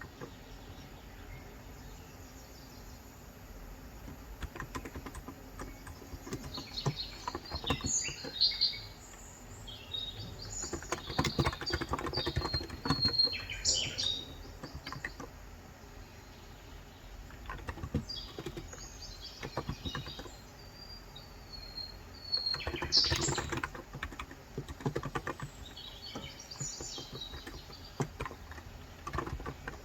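Typing in bursts on a COX Endeavour 35 g electrostatic capacitive (non-contact) tenkeyless keyboard, the soft keystrokes coming in runs with short pauses. Birds chirp at intervals in the background.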